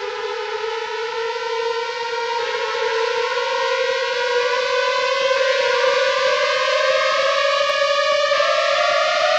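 A single sustained tone with overtones, rising slowly and steadily in pitch and growing louder throughout: a rising suspense drone in a horror film's soundtrack.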